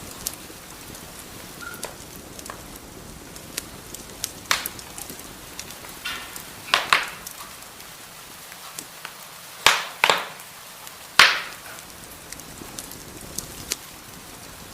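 Wood fire burning in a fireplace: a steady soft hiss with scattered sharp crackles, and a few loud pops of burning wood in the middle.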